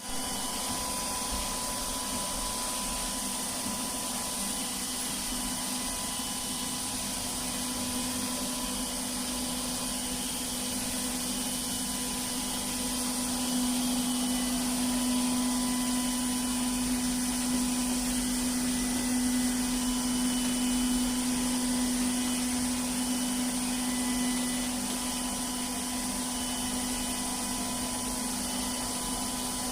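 Milagrow Seagull robot floor cleaner running: a steady motor hum with a high hiss, growing louder for about ten seconds in the middle and then easing back.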